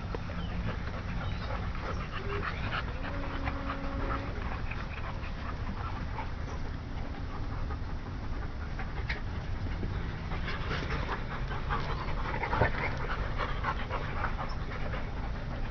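Dogs panting, with scattered short clicks over a steady low rumble, and a brief whine about three seconds in.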